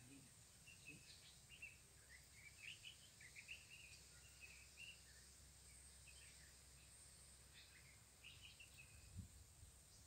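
Faint outdoor ambience: small birds chirping and twittering now and then, over a steady faint high hiss.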